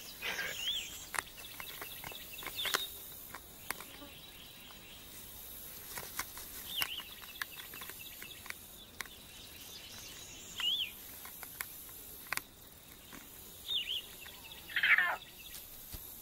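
Outdoor ambience with a bird giving a short, high, wavering chirp every few seconds, and scattered sharp clicks. A louder call slides downward near the end.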